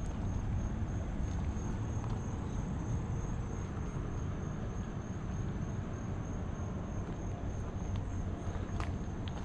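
Insects, likely crickets, trill steadily in a high, evenly pulsing note over a continuous low rumble.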